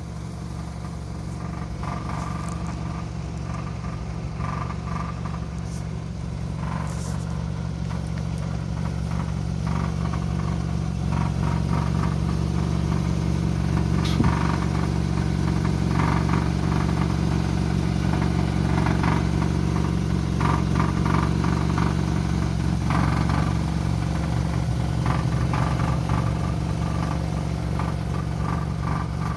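Ford Kuga II car engine running steadily, with an irregular metallic rattle that comes and goes in short bursts every second or two from the rear of the exhaust system on a cold engine. The owner suspects the fuel tank's heat shield knocking against the exhaust pipe.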